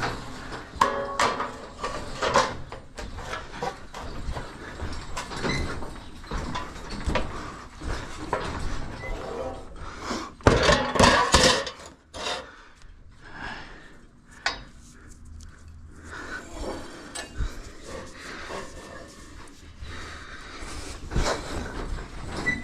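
Irregular knocks, clatter and scraping of things being handled, with a louder burst of knocks about ten and a half seconds in.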